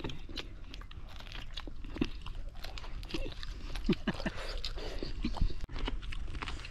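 Close-up biting and chewing of roasted green corn on the cob: kernels crunch and pop off the cob with wet mouth smacks, in a string of short crisp clicks.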